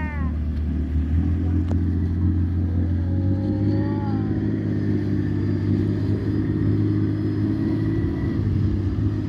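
Speedboat engine running steadily while towing a parasail, its pitch stepping up slightly about three and a half seconds in.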